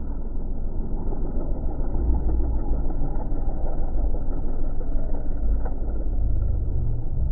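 Race car engines running at speed on the circuit: a steady, loud mass of engine noise with a heavy low rumble.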